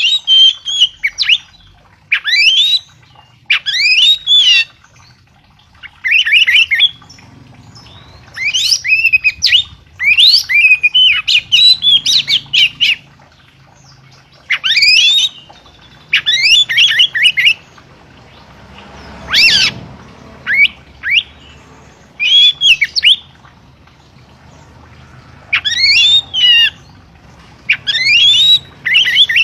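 A songbird singing loud, short phrases of quick sweeping, warbled notes, one phrase every second or two with brief pauses between.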